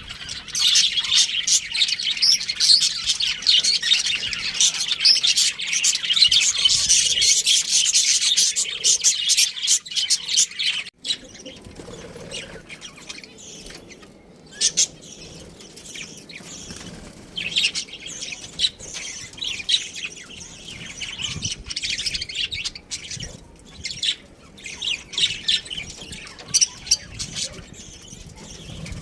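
Budgerigars chirping and chattering in a rapid, dense stream for about the first eleven seconds; after an abrupt break the chirps turn quieter and come in scattered short bursts.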